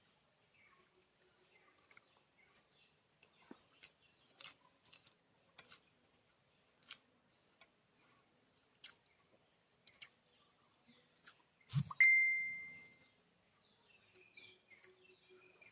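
Scattered faint clicks and bird chirps, then a single sharp knock followed by a short bright ringing ding that fades over about a second, near the end.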